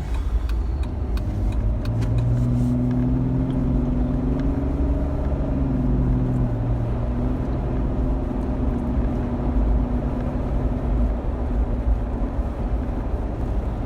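Pickup truck driving, heard from inside the cab: a steady rumble of engine and road, with a low engine hum coming in about two seconds in and fading near the end.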